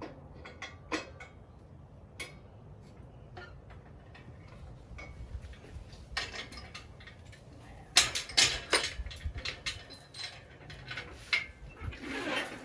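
Metal clinking and knocking as an engine is lowered into place in a car's engine bay: scattered light clicks, then a cluster of louder knocks about eight seconds in and more near the end.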